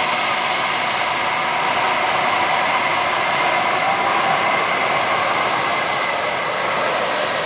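Jet aircraft engine noise: a loud, steady rushing sound with a high whine running through it.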